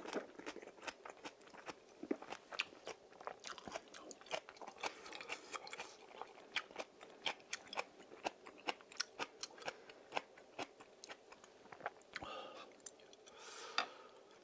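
A person chewing a mouthful of fish stew close to the microphone, with lip smacks: a steady run of small, sharp mouth clicks.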